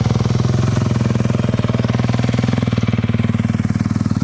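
Dirt bike engine running at a steady speed, a fast, even pulsing with no rise or fall in pitch.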